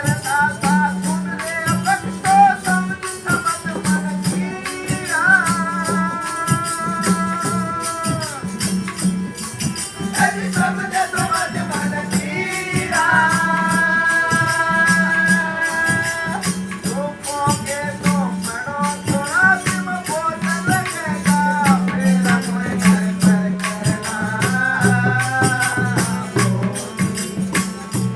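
Devotional satsang bhajan music: a melody with held, gliding notes over fast, dense jingling percussion and a steady low drum beat.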